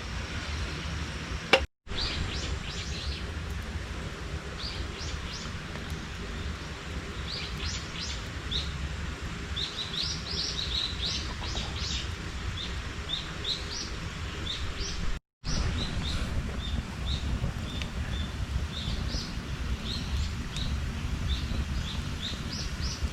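Small birds chirping outdoors: many short, quick high chirps in loose runs, over a steady low background rumble. The sound cuts out for an instant twice.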